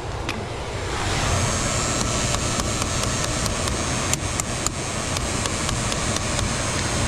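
Air handler's PSC blower motor running steadily, a continuous whooshing mechanical run. From about two seconds in until near the end, a string of light, irregular clicks sits on top of it. The blower is being kept on by a fan relay that is suspected of sticking.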